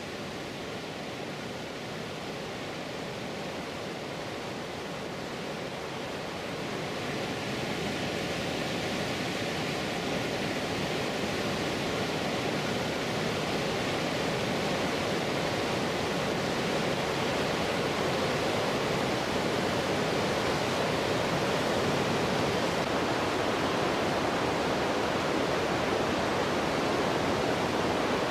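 Whitewater rushing steadily at a river waterfall and rapids, swelling louder a few seconds in and then holding.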